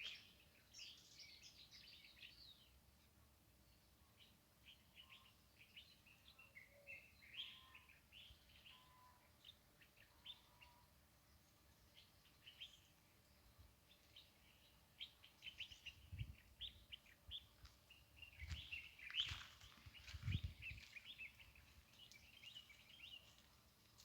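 Small songbirds chirping and twittering, many short high calls overlapping, busiest near the end. A few low thumps come in about two-thirds of the way through.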